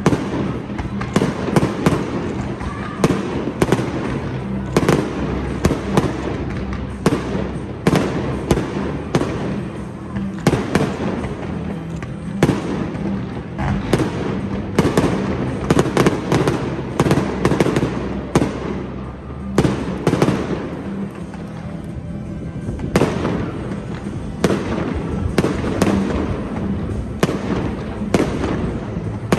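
Aerial fireworks display: shells launching and bursting in quick succession, sharp bangs and crackles several times a second throughout. Music plays steadily underneath.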